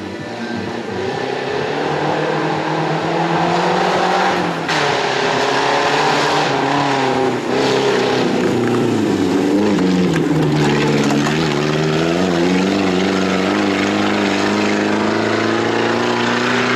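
Off-road race vehicle's engine running hard and revving. Its pitch drops twice, about a third of the way in and again near the middle, then climbs and holds high, with a couple of short sharp knocks along the way.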